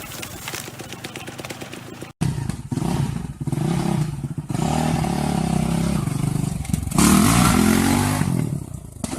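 Dirt bike engines revving, cut abruptly about two seconds in to a louder engine whose pitch rises and falls near the end.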